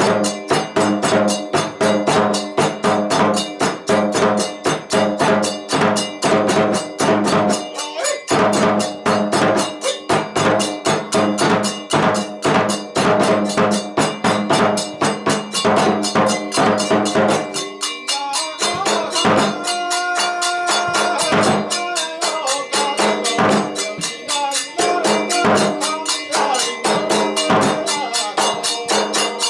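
Kagura festival music: fast, driving drumming with clashing hand cymbals under a steady held melody, most likely a bamboo flute. About two-thirds of the way through, the drumming thins out for a few seconds and the melody stands out more.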